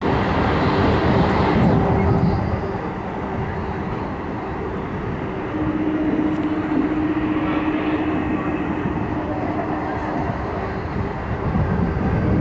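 Passenger train running, heard from inside the carriage as a steady rumble and rattle, with a steady hum joining about halfway through.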